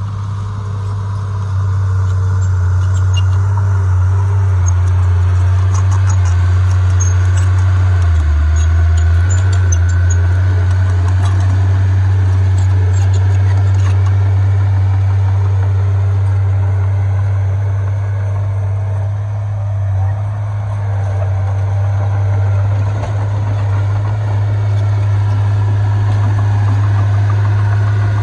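Heavy diesel engine of earthmoving machinery running steadily, its pitch dropping briefly about eight seconds in as it takes load, with faint clicks in the first half.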